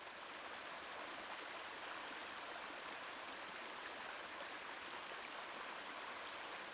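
A small cascading stream rushing over rocks, a steady, even rush of water.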